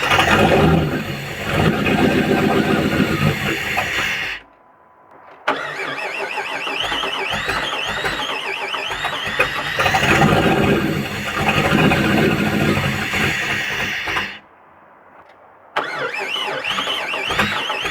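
Fuel-injected 5.9 L (360) V8 from a 1998 Jeep Grand Cherokee being cranked and catching on fuel poured into its throttle body, running for a few seconds and dying, then restarted; this happens twice, with about a second of quiet each time before the starter engages again. The engine will run only on the poured-in fuel, not on its own fuel supply.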